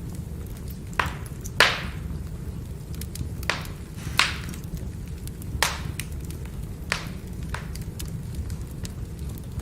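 Firewood burning and crackling over a steady low rumble, with about seven sharp pops, the loudest about a second and a half in.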